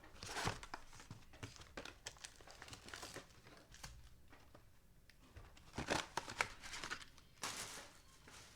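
Plastic and foil trading-card pack wrappers crinkling and tearing as packs are opened, with louder rustles about half a second, six seconds and seven and a half seconds in.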